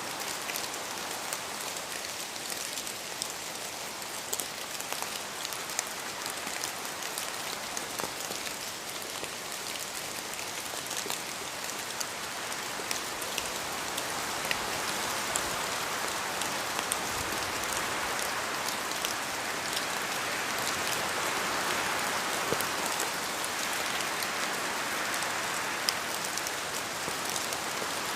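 Steady rain in a forest, with many separate drops pattering and ticking on leaves as they fall from the trees; the rain swells a little louder about halfway through.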